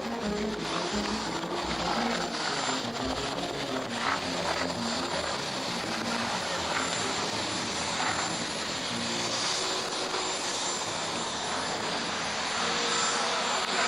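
Display aircraft flying overhead, the engine noise running steadily and swelling slightly near the end.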